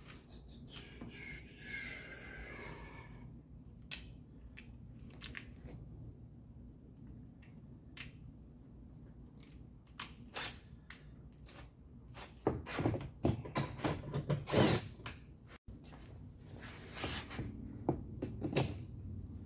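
Hands working on a truck's plastic door panel and handle parts, with scattered clicks and knocks and a brief falling squeak near the start. About two-thirds of the way through comes a louder stretch of rubbing and scraping.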